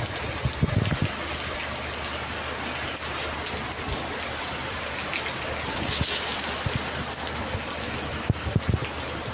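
Heavy downpour of rain, a steady even hiss, with a few short low thumps about a second in and again near the end.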